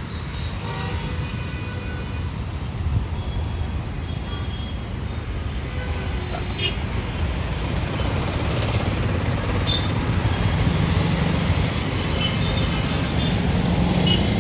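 Road traffic: vehicle engines running and passing in a steady rumble that grows louder in the second half, with a few short horn toots.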